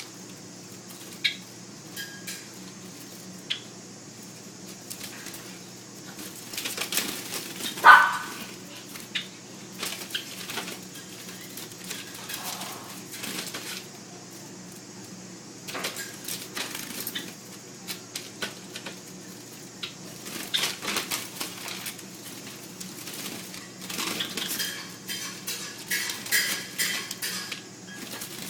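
Small bird moving about with irregular light clicks, taps and rattles, and a short sharp chirp about eight seconds in; busier clicking and chirping near the end.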